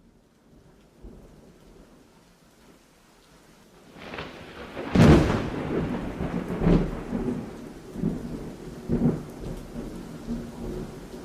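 Thunderstorm: a faint hiss of rain that swells, a loud thunderclap about five seconds in, then further rolls of thunder.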